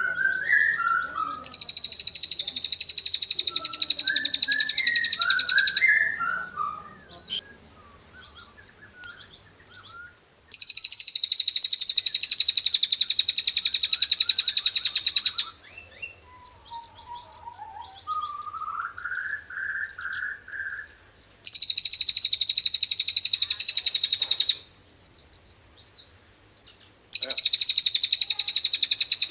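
Cililin bird singing its long, high-pitched, very rapid trill (ngriwik panjang) in four runs of several seconds each, with short lower chirps and whistles between them.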